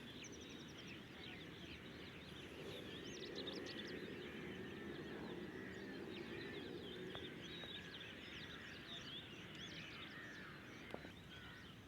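A faint chorus of many birds chirping and calling over one another, quick sweeping chirps overlapping throughout, over a steady low background hum.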